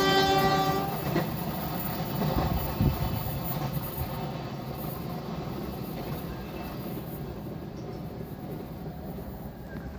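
Passenger train's horn, held until about a second in, then the train's rolling rumble fading steadily as it draws away down the line.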